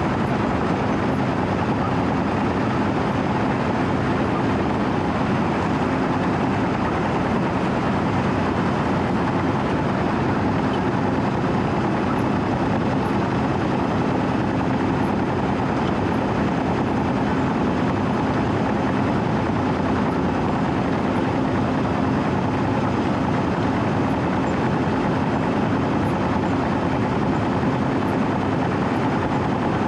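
Diesel engine of a Wirtgen W120CFi cold milling machine running steadily with a constant hum and rumble as the machine travels along the road, its cutting drum not yet working.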